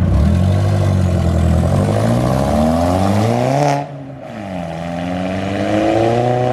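Car engine revving hard as it accelerates away, its pitch climbing for nearly four seconds. About four seconds in the throttle lifts with a sudden drop in loudness, the pitch falls, then the engine climbs again.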